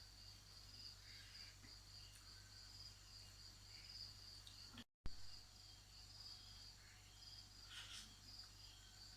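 Faint, steady trilling of crickets, a high pulsing chorus, cut by a brief dropout about halfway through.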